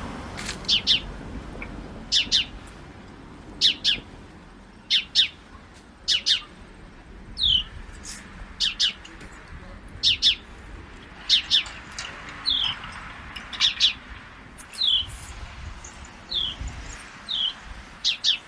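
Birds chirping: sharp high chirps, often in quick pairs, about every second or so, mixed with short falling notes.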